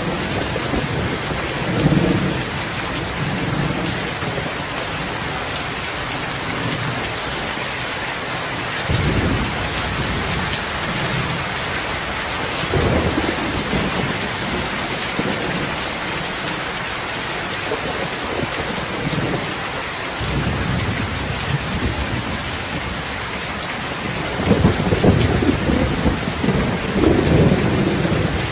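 Steady heavy rain, with low rolls of thunder every few seconds, the longest and loudest near the end.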